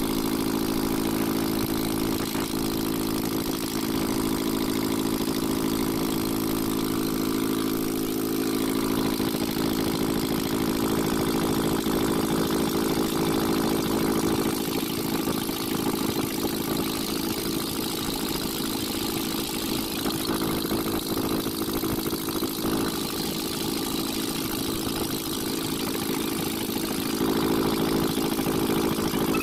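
Ashok Leyland Captain truck's BS4 diesel engine idling steadily with the tappet (valve) cover off. It is running normally: the fallen valve bridge on the rear-most cylinder has been refitted, and the injector-like knock it caused is gone.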